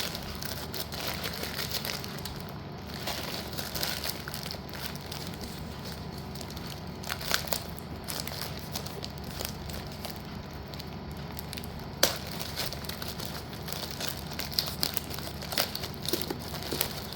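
Plastic packaging crinkling and rustling as parcel contents are handled and unwrapped, with many small sharp clicks and a louder tap about twelve seconds in.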